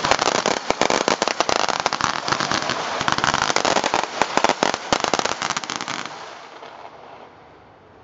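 Feu de joie: a line of soldiers' rifles firing blank rounds one after another in a fast rippling volley of sharp cracks. The cracks run for about six seconds, then die away in echo.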